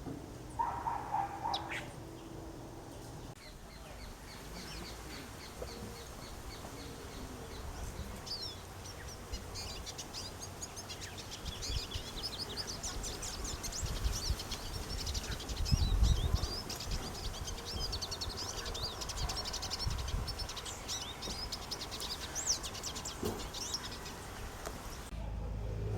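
Small birds chirping and twittering in quick, high, overlapping notes, with a single lower call about a second in. A brief low rumble comes about halfway through.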